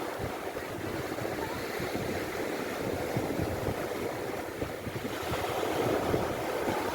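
Sea water washing and breaking in a continuous rush, with wind buffeting the microphone in low rumbles; it swells slightly near the end.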